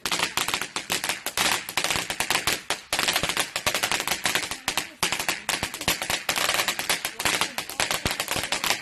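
Crackling firework fountain: a dense, rapid, irregular run of sharp crackles and pops.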